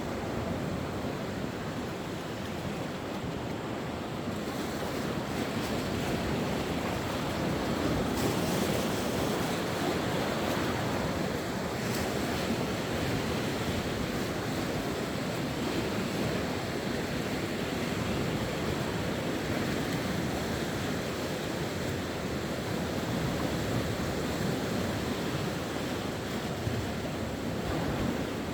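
Sea waves breaking and washing on the shore: a steady surf noise that swells a little about eight seconds in.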